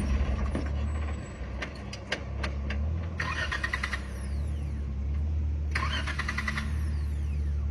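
Off-road vehicle's engine running low and steady as it crawls over rock, with scattered sharp clicks and knocks in the first few seconds. Three bursts of fast rhythmic buzzing come and go over it.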